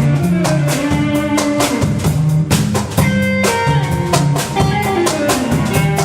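Instrumental band music: a drum kit keeps a steady beat under a moving bass line and guitar.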